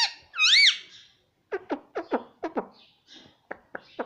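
Pet parrot calling: a loud arching squawk in the first second, then a quick run of about six short falling chirps, and a few sharp clicks near the end.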